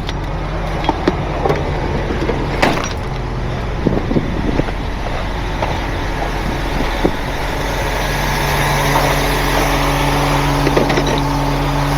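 Heavy truck engine idling steadily, its note growing a little stronger about eight seconds in, with a few scattered clicks and knocks.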